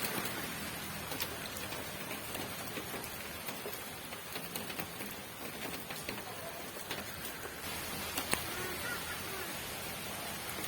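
Steady rain falling: an even hiss with scattered drips and taps, one louder tap about eight seconds in.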